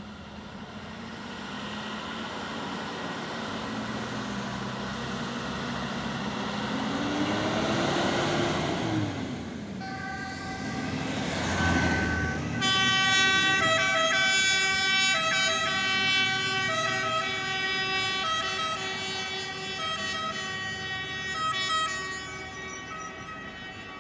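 Fire engines pulling out on a call: engine noise builds over the first ten seconds, one vehicle passes close about halfway through, then a two-tone siren alternates between its two pitches for the rest.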